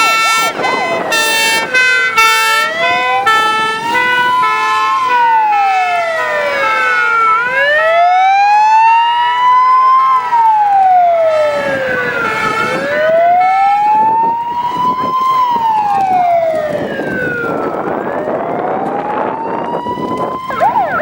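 Emergency vehicle sirens approaching: a two-tone horn alternating between two notes for the first several seconds, over a slow wailing siren that rises and falls about every five seconds, with a second siren sweeping at a higher pitch. A faster yelp begins near the end.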